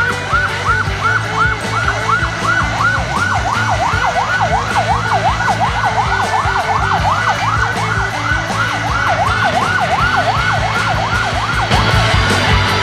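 Emergency vehicle siren on a fast yelp, its pitch sweeping up and down about four times a second, fading out near the end, over a steady low hum.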